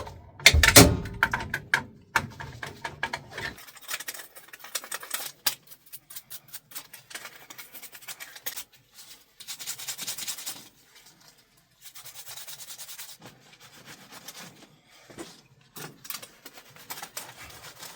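Hand-tool work on a furnace: irregular scraping and rubbing with scattered clicks and knocks. The loudest knock comes about a second in, and a longer scrape follows about ten seconds in.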